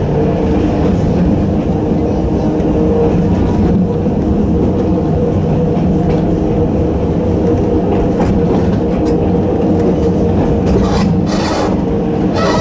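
Narrow-gauge electric train of the Sangi Railway Hokusei Line running at a steady speed: its nose-suspended traction motors and gears drone with several steady tones over the rumble of the wheels on the rails. A few sharp clacks of wheels over rail joints come near the end.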